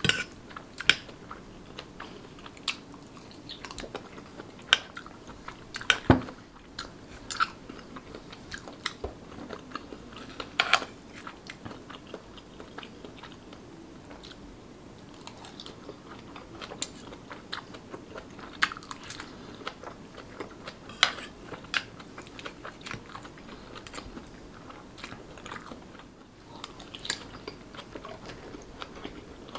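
Close-miked chewing of yong tau fu in sauce: soft wet mouth and lip-smacking sounds, with many short sharp clicks scattered through and a louder one about six seconds in.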